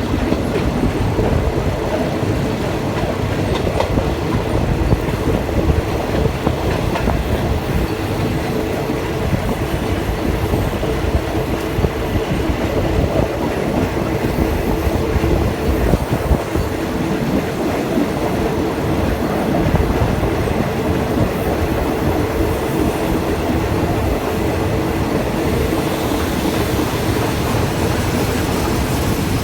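Passenger train running along the track, heard from inside a carriage: a steady rumble of wheels on rails with a steady drone and occasional clicks over the joints.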